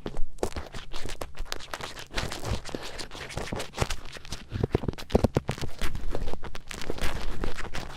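Ear-cleaning ASMR: an earpick scratching and scraping close inside a microphone's ear, in dense, irregular strokes with small clicks and heavier rubbing about halfway through.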